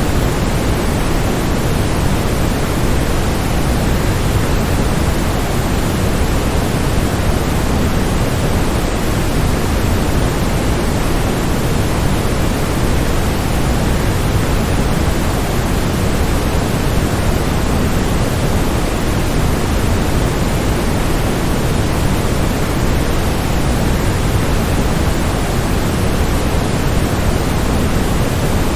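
A waterfall's steady rush of falling water, an even, unbroken noise heaviest in the low end.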